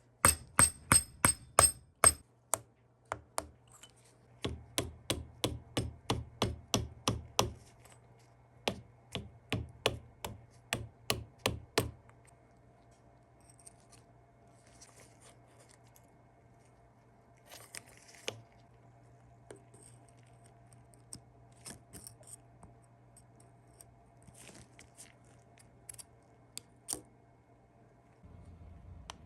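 Quick series of sharp metallic taps, about four a second, in three runs over the first twelve seconds, typical of a small hammer striking metal. After that there are only scattered light clicks and handling sounds.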